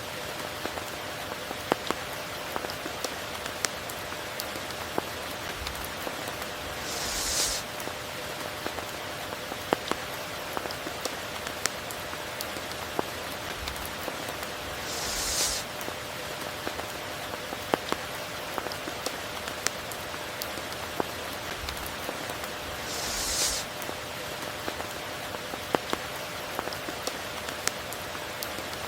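Steady rain falling, with many separate drops ticking close by. A brief high hiss swells up and fades about every eight seconds.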